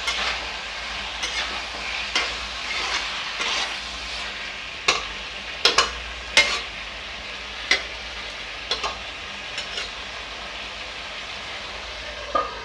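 Potato and radish pieces sizzling in a metal kadhai on high flame while a spatula scrapes and stirs them. In the middle comes a run of sharp knocks of the spatula against the pan, and near the end the steel lid goes on with a short ringing clink.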